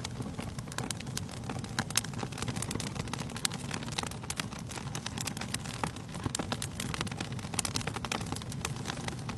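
Wood fire burning in a fireplace: frequent, irregular crackles and pops over a steady low rumble of the flames.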